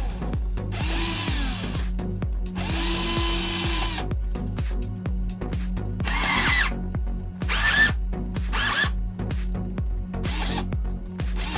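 Cordless drill run in a series of short trigger bursts, about eight in all. Its motor whines up to speed and winds down each time, over background music with a steady low beat.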